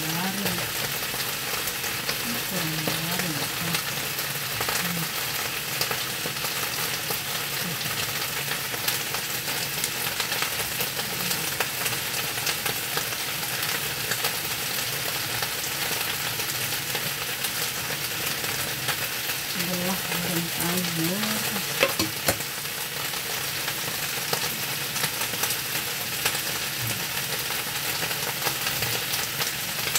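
Battered chicken pieces deep-frying in hot oil in a wok: a steady, dense crackling sizzle. A spatula stirs through the pieces, with two sharp knocks against the pan about two-thirds of the way through.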